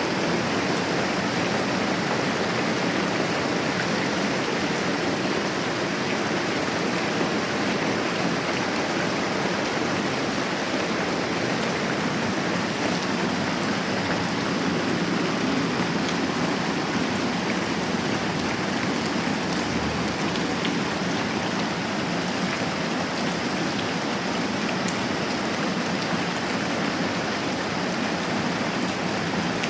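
Steady moderate rain, an even hiss with no breaks or changes.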